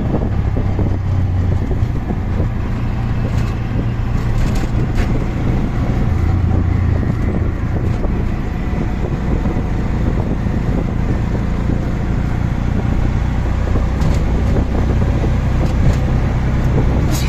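Auto rickshaw engine running while riding through traffic, a steady low drone whose pitch shifts now and then, over road and traffic noise.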